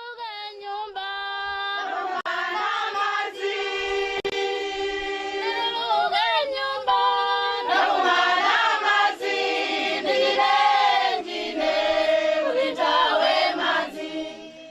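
A choir singing in long held notes; the sound fills out about two seconds in.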